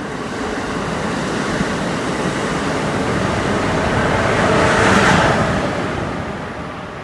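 An Amtrak train rushing past at speed, a steady noise of wheels and air without any horn, building to its loudest about five seconds in and then fading away.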